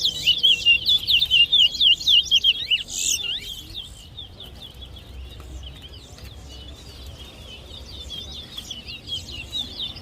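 Towa-towa seed finches singing in a song race: a loud, fast run of chirping notes for about the first four seconds, then softer chirping that carries on.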